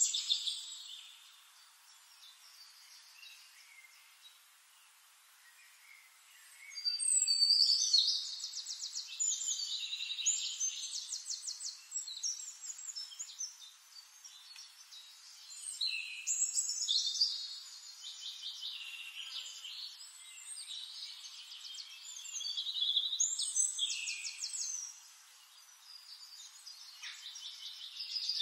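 Songbirds singing: phrases of high chirps and fast trills, coming in after a quiet stretch of several seconds and then recurring every few seconds.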